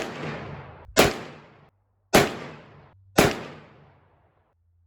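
Four .357 Magnum shots from a Smith & Wesson Model 66 revolver, fired about a second apart, each a sharp report followed by a fading tail.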